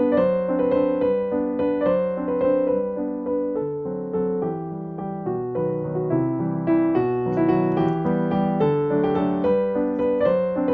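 Background piano music: a gentle melody of evenly played notes over a lower accompaniment.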